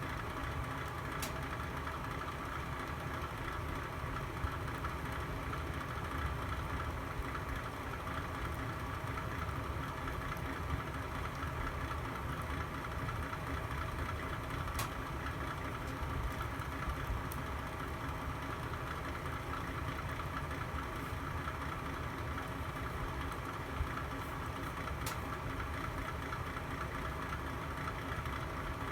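Wood fire burning in a fireplace: a steady low rumble and hiss, with a few sharp pops from the logs, three of them standing out about a second in, midway and near the end.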